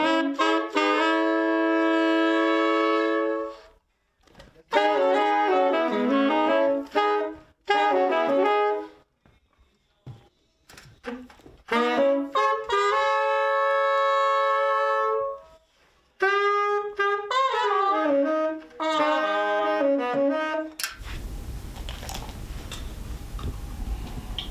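Solo wind instrument, a saxophone or brass horn, playing unaccompanied phrases: long held notes and quick runs of notes, with silent pauses between them. It stops about 21 seconds in, leaving a steady hiss.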